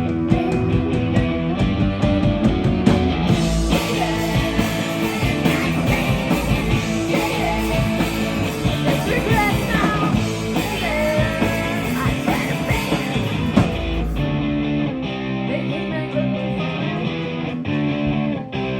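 Live rock band playing loud: distorted electric guitars and drums, with singing. About fourteen seconds in the drums and cymbals drop out, leaving the guitars ringing on.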